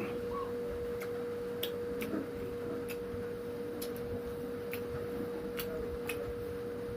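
Eating sounds: a string of sharp, irregularly spaced clicks, roughly one or two a second, over a steady hum.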